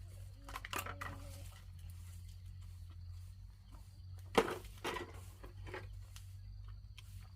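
A few short crunching knocks, the loudest about four and a half seconds in, over a low steady hum.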